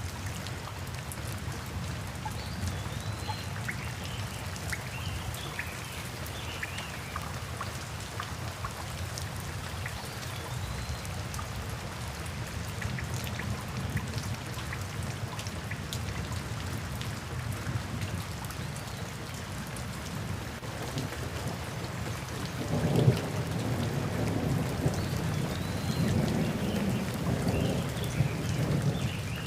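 Steady rainfall in a thunderstorm, with a low rumble of thunder swelling about three quarters of the way through.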